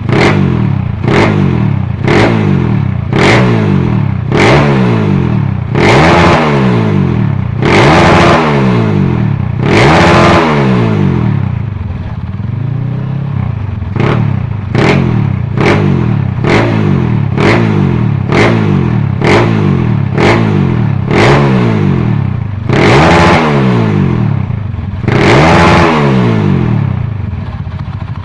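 Honda CB motorcycle engine being revved over and over while it is tuned. It gives quick throttle blips about once a second, with a few longer revs that climb and fall, and drops back to idle near the end.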